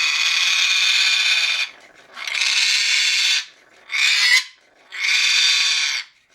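African grey parrot growling: four harsh, rasping growls of one to two seconds each, the third one shorter. This is the parrot's scream-growl at a new toy, a normal display of asserting itself over a newcomer.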